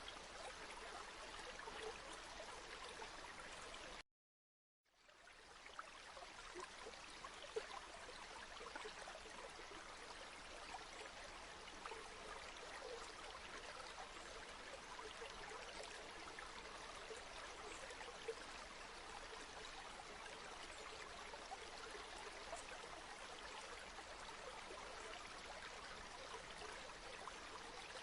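A flowing river: steady rushing and trickling water. It drops out to silence for about half a second a little after four seconds in, then fades back up.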